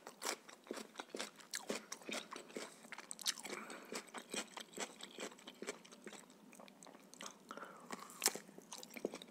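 Close-miked eating sounds: a man chewing, a dense run of small wet clicks and crisp crunches, starting on a bite of raw radish. A sharper crunch comes near the end as he takes another bite.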